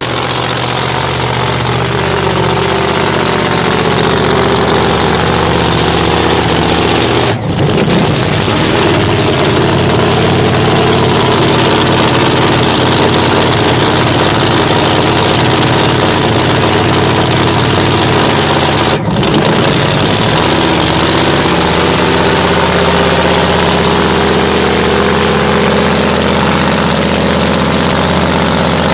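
Supercharged drag-racing V8 idling loudly with a steady, lumpy beat, with two brief dropouts about seven and nineteen seconds in.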